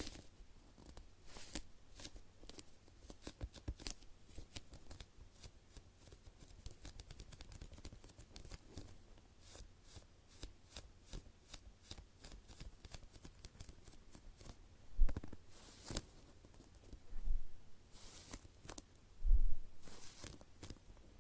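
A sponge-type toast-slice squishy toy being squeezed and handled by fingers: a steady run of short crackly rustles and light taps on its surface, with a few louder, fuller squishes in the last third.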